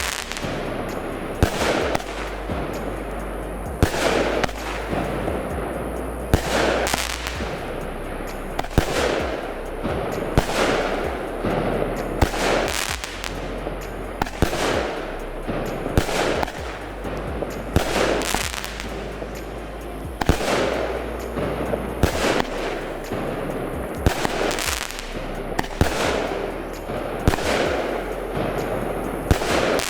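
A Pyro King 'Armored' 16-shot 200-gram consumer firework cake firing shot after shot, with a sharp report roughly every one and a half to two seconds.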